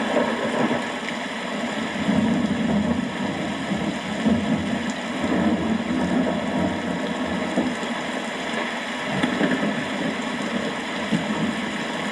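Steady rain with a low rumble of thunder underneath that swells and fades.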